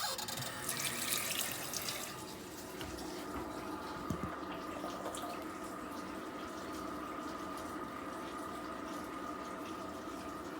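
Kitchen tap running into a sink, starting abruptly and splashing harder for the first couple of seconds, then flowing steadily.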